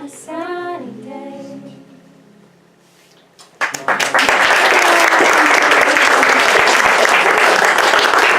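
The final sung note of the song with acoustic guitar fades out over about two seconds. About three and a half seconds in, an audience breaks into loud applause that carries on.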